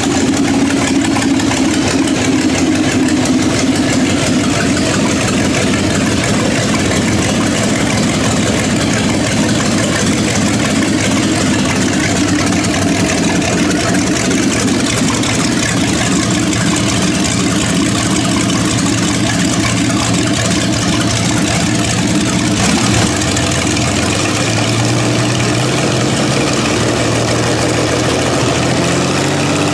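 1960 GMC 702 V12 gasoline engine running steadily; its note changes about 23 seconds in.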